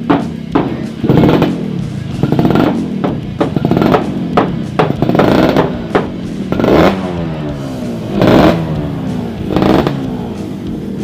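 Yamaha F1ZR's two-stroke single-cylinder engine being revved in repeated throttle blips, the revs falling away after each, while it is being adjusted during a tune-up. Music plays along with it.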